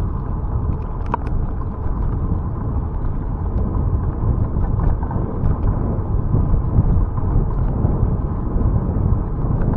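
Wind buffeting the microphone of a camera on a moving bicycle, with road rumble, as a steady low noise and a few faint clicks.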